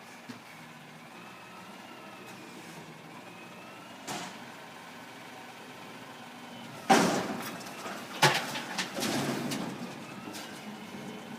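Mack garbage truck idling with a faint wavering whine, a single knock about four seconds in, then two loud bangs a little over a second apart past the middle, followed by a burst of clattering.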